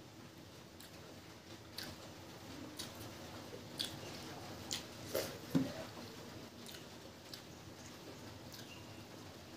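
Mouth chewing and lip-smacking on rice and curry eaten by hand, with soft wet clicks of fingers mixing rice through dal on a steel plate. The short smacks come irregularly and are loudest a little past the middle.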